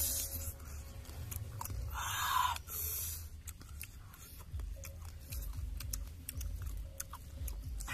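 Close-up chewing and crunching on cooked crab, with many short sharp cracks as shells and claws are broken apart by fingers and teeth. A louder crunch comes about two seconds in.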